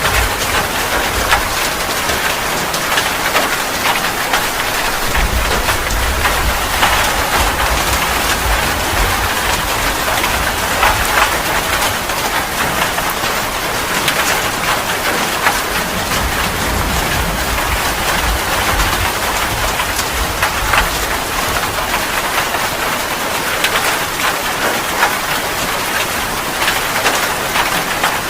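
Steady rain falling, with many individual drops pattering through it. A low rumble swells and fades underneath a couple of times.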